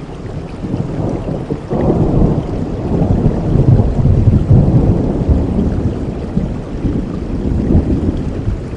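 Steady rainfall with a long, low rumble of thunder that builds about two seconds in and fades toward the end.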